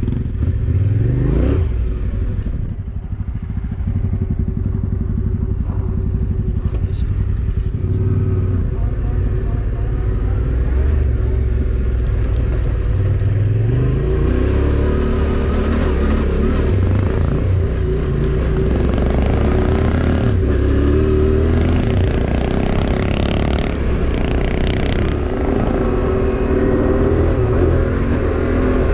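Motorcycle engine running under way, its revs rising and falling as the rider goes up and down through the gears.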